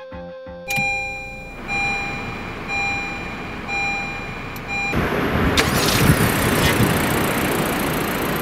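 Honda Civic FK7 hatchback being started. A dashboard chime beeps about once a second, then about five seconds in the engine is suddenly cranked into life and keeps running loudly.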